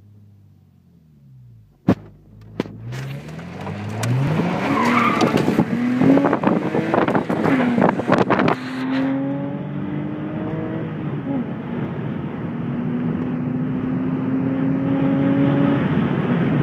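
1999 Porsche Boxster's flat-six engine heard from inside the cabin, idling, then pulling hard from a standstill, its pitch climbing and falling back at each gear change, then settling into a steady run that rises slowly in pitch. A sharp click comes about two seconds in, and there is tyre noise from the gravel road under the acceleration.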